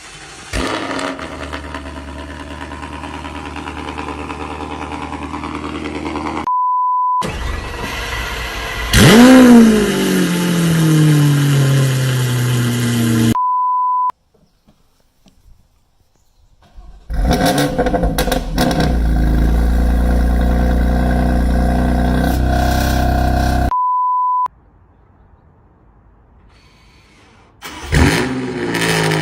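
Engines started cold in several clips one after another. Each catches with a sharp rev that falls back to a steady fast idle. Short steady beep tones come between the clips.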